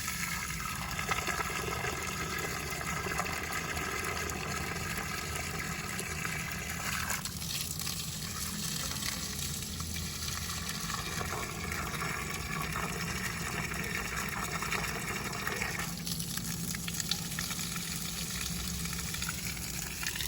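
Water gushing steadily from a garden hose pipe onto plants and soil, its sound shifting about a third of the way through and again about three-quarters through.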